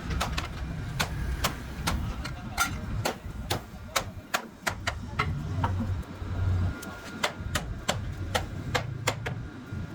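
Repeated sharp hammer blows on wood, about two to three strikes a second, in a steady working rhythm.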